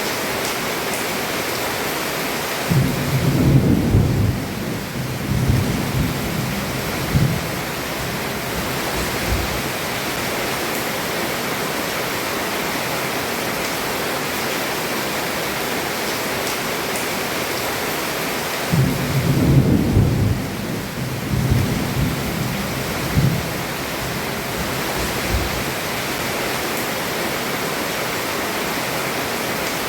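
Heavy rain falling steadily on a roof, with two long rolls of thunder: one a few seconds in and another about two-thirds of the way through, each rumbling for several seconds.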